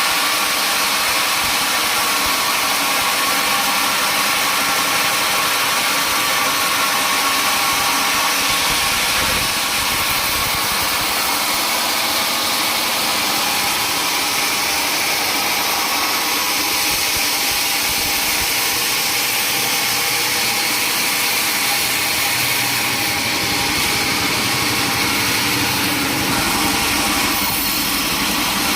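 Sawmill machinery running: a steady, loud mechanical drone of the saw and its motor, with a high whine over it.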